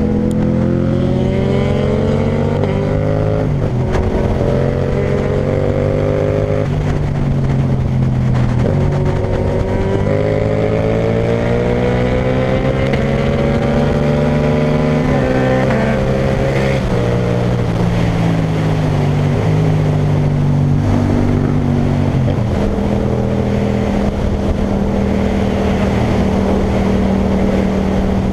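Yamaha MT-07's parallel-twin engine through an Akrapovic titanium exhaust, accelerating through the gears. The pitch climbs and drops briefly at each upshift, then falls as the bike slows about halfway through. It holds a steady note for the last six seconds.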